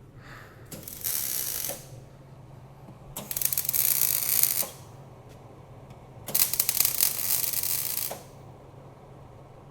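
MIG welder crackling in three bursts of about a second or more each, tacking a steel pull tab onto a car's quarter panel so the panel can be pulled out. A steady low hum runs underneath.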